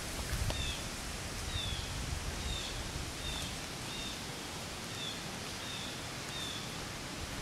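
A small bird repeats a short, falling high call about once or twice a second over a steady, low outdoor background rumble.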